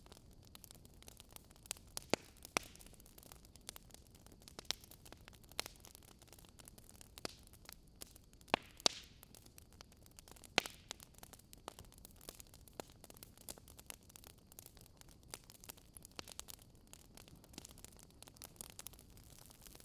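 Fire pit fire crackling: irregular sharp pops and snaps over a faint steady hiss, with a handful of louder snaps scattered through.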